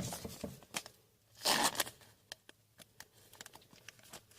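Hockey trading cards being handled on a table: light clicks and taps, with one louder rustling slide about a second and a half in.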